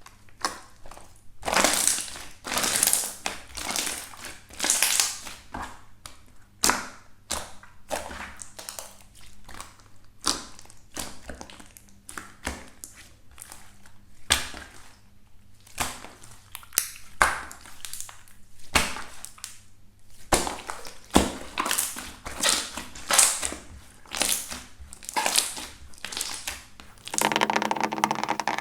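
Slime being pressed and squeezed by hand, giving a run of irregular crunching and crackling pops. Near the end it changes to a steadier, buzzier sound.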